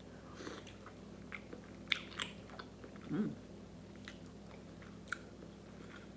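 Close-up mouth sounds of biting and chewing a sauce-coated boiled egg: scattered soft wet smacks and clicks, with a brief low hum from the eater about three seconds in.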